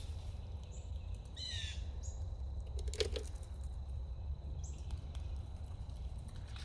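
Birds chirping a few short, high calls, with one longer stuttering call about a second and a half in, over a steady low rumble. A single sharp tap about three seconds in.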